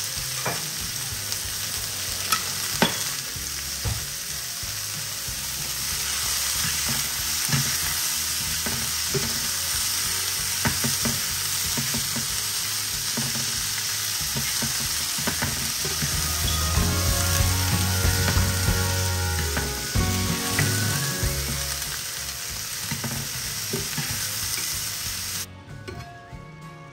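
Beef and green beans sizzling loudly as they stir-fry in a skillet, with the chopsticks clicking and scraping against the pan now and then. The sizzle cuts off abruptly near the end.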